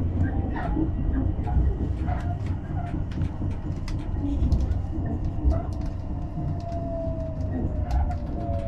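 Train running noise heard inside the carriage: a steady low rumble with scattered short clicks, and a faint tone that slowly falls in pitch through the second half.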